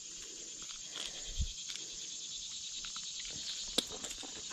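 Insects trilling steadily in a high, even chorus, with a few faint clicks and a soft thump about a second and a half in.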